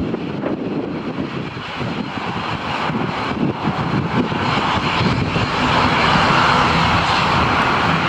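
Aircraft engines at an airport, a steady rushing noise that grows louder over the second half as the plane comes closer.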